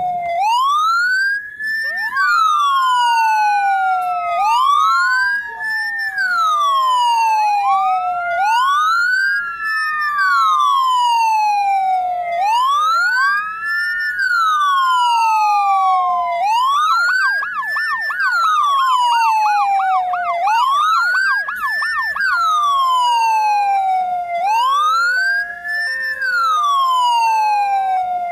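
Ambulance siren in a rising-and-falling wail, one cycle about every four seconds, with a second overlapping wail early on. About halfway through it switches briefly to a fast yelp, warbling up and down several times a second. Near the end a stepped hi-lo two-tone pattern sounds over the wail.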